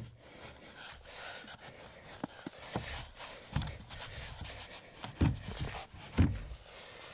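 Wooden cabin panels being pushed together and lined up by hand, rubbing and scraping with irregular knocks and thumps, the loudest about six seconds in.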